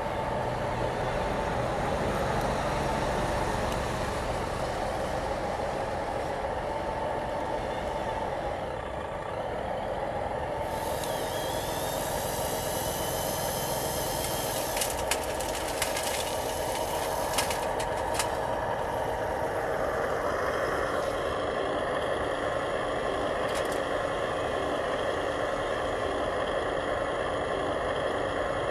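Remote-control model construction trucks running, with the steady whine of their motors and gears. A higher, hissing whine sets in about ten seconds in, and a few sharp clicks come a few seconds later.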